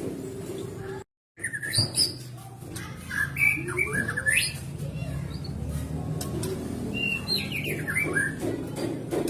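White-rumped shama singing: short whistled phrases that sweep up and down, in two runs. The audio cuts out briefly about a second in.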